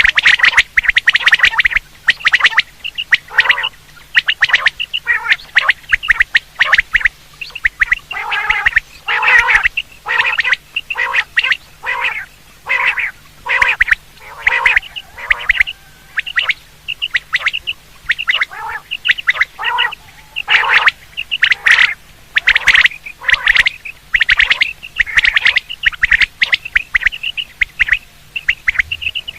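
Common quail (batair) calls, a call recording of the kind played to lure quail for hunting: a long, loud series of short, sharp calls, several a second, with hardly a pause.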